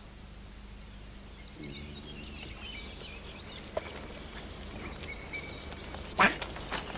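Birds chirping and twittering over a faint steady hum, with a brief low voice sound about two seconds in. About six seconds in comes a sharp knock, the loudest sound, followed by a few lighter clicks.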